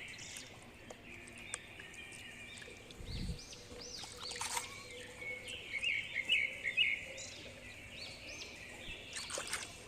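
Small birds chirping and calling, many short high chirps repeating through a quiet outdoor background, with a brief low thump about three seconds in.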